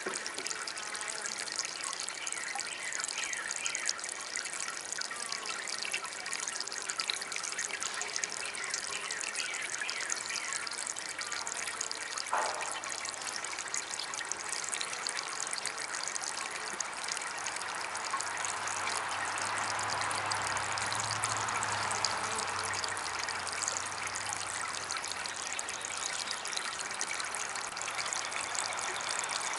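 Small DIY water fountain trickling and splashing steadily. A faint low hum comes in a little past halfway and fades again, and there is a single click about 12 seconds in.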